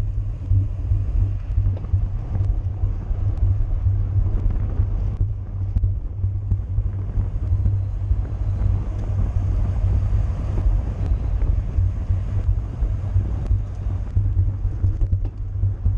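Wind buffeting the microphone at cycling speed, a steady low rumble.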